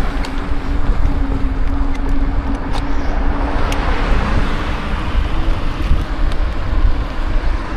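Wind buffeting the microphone of a moving bicycle, with road traffic noise and a steady low hum throughout, and a few faint sharp clicks.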